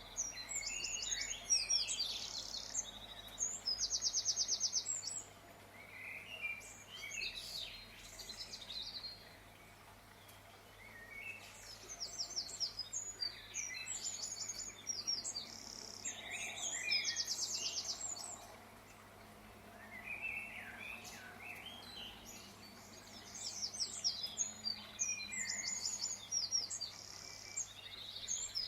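Songbirds singing: bouts of high chirps and fast trills that come and go every few seconds, over a faint steady low hum.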